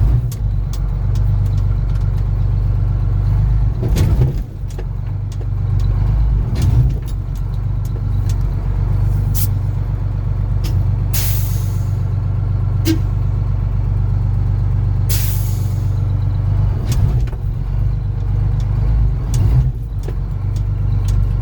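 1985 Ford CL9000 cabover semi's diesel engine running steadily. Two short hisses of released air, typical of air brakes, come about halfway through, a few seconds apart.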